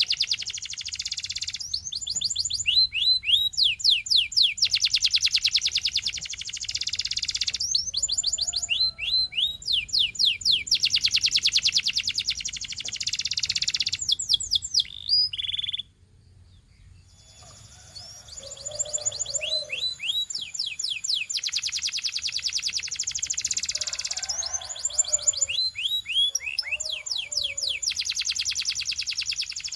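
Canary singing a long song of fast rolling trills and quickly repeated rising notes, with a brief pause about halfway through before the song starts again.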